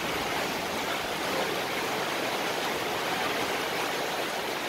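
Heavy downpour: rain pouring down in a steady hiss.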